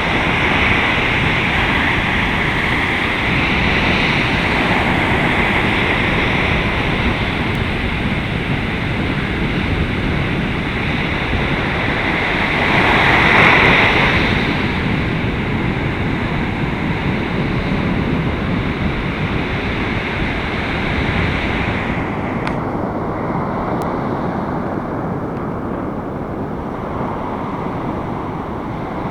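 Gale-force wind blasting across the microphone, blended with breaking surf in one continuous roar. A wave surges louder about halfway through, and the high hiss thins out about three quarters of the way in.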